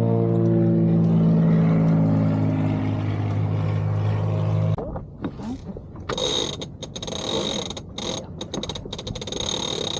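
Motorboat engine droning steadily, sinking slightly in pitch, then cutting off abruptly about halfway through. Irregular bursts of noise follow.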